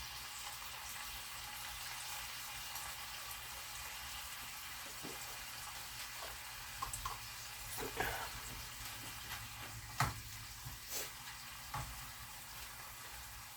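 Chicken pieces frying in oil in a pan, giving a low steady sizzle as they sear. A few short knocks and scrapes of a utensil against the pan come through the second half.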